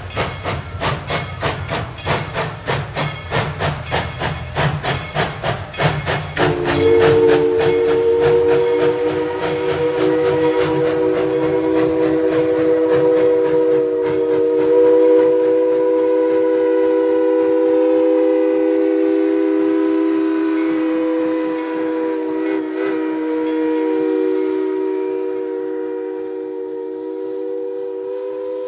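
Narrow-gauge steam locomotive working, its exhaust chuffing rapidly at about four beats a second. About six seconds in, its chime whistle sounds a chord and holds it for over twenty seconds while the chuffing fades under it.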